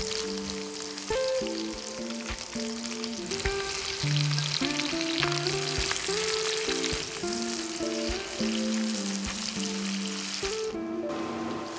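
Chicken hearts, mushrooms and onions sizzling in a frying pan, stirred with a spatula that scrapes and taps against the pan, over background music. The sizzle briefly drops out near the end.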